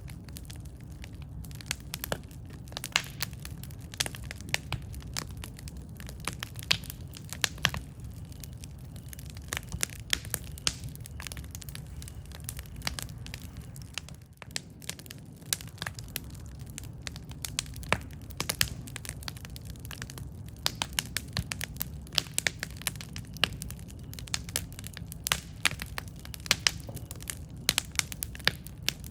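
Campfire burning: a steady low rumble of flames with frequent irregular crackles and pops from the burning wood.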